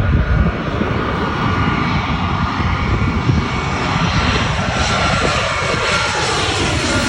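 Jet airliner's engines, a loud low rumble with a high whine; in the second half the pitch glides down as the plane moves away.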